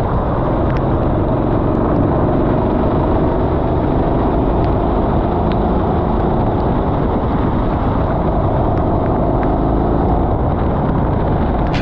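Racing go-kart engine running steadily at speed on a wet track, mixed with a constant rush of wind and tyre noise.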